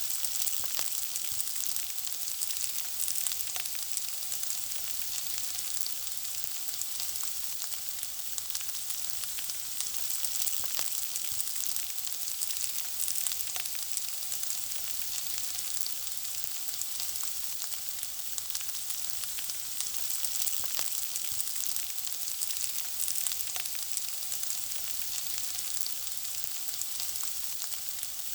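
Food frying in hot oil: a steady high sizzle with many small pops and crackles.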